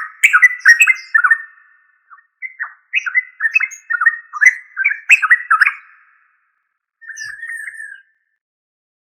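Yellow-vented bulbul singing: quick runs of bubbly, chattering notes in three phrases, the last one short and softer.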